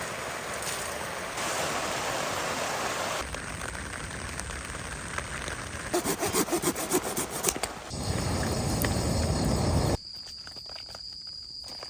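A run of short outdoor sounds with abrupt cuts. First a steady rain hiss, then a quick run of hand-saw strokes on wood about six seconds in. Near the end it turns quieter, with a steady high-pitched whine.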